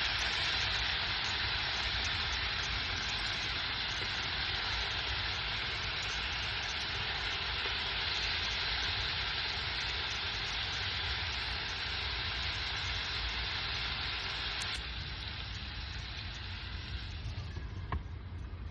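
Food cooking with a steady hiss that dies down over the last few seconds, with one sharp click near the end.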